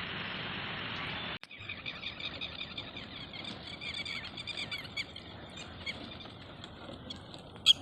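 A steady hiss cuts off abruptly, then birds chirp busily in a dawn chorus of many short, quick chirps. A single sharp click comes near the end.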